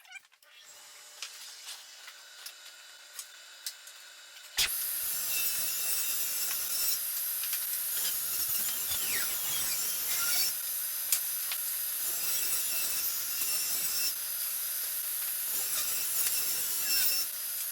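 5 HP SawStop table saw spinning, then cutting into wood about four and a half seconds in, with a loud, high-pitched sawing noise that carries on until it fades near the end.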